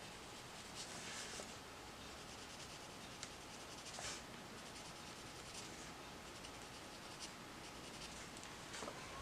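Colored pencil shading on paper: a handful of faint, short scratchy strokes at irregular intervals.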